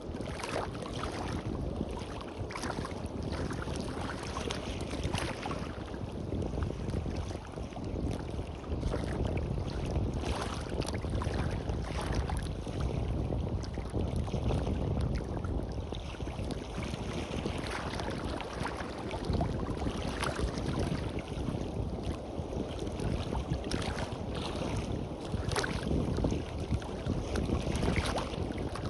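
Sea waves washing and splashing on a beach, with wind buffeting the microphone.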